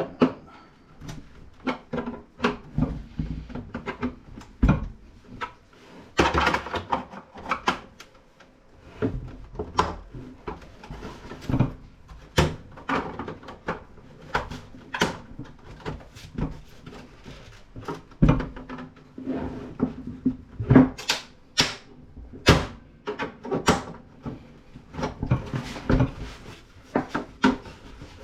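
Plastic housing of a CRT monitor being pried and pulled apart by hand: irregular clicks, knocks and rattles as the tabs give and the parts are handled.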